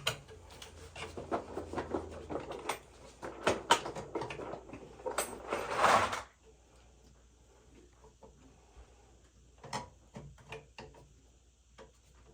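Clicks and light metallic knocks of hand tools and small oil-burner parts being handled during a nozzle change. They are busiest in the first six seconds, with a short scraping rub near six seconds, then thin out to scattered faint taps.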